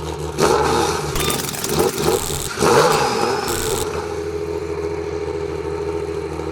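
Off-road 4x4's engine, just fired up after the vehicle was rolled over and set back on its wheels, revved hard three times in the first four seconds and then settling to a steady idle.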